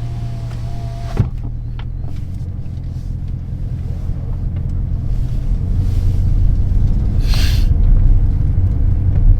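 Straight-piped Hemi V8 of a 2022 Chrysler 300 S running with a low exhaust rumble that grows louder from about halfway in. There is a click a little after a second in and a brief hiss about seven seconds in.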